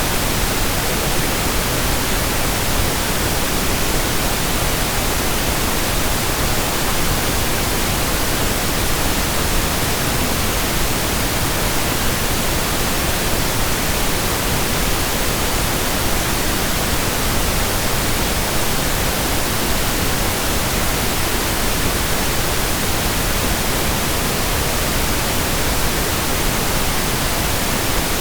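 Steady synthetic pink noise: an even, unbroken hiss spread across the whole range.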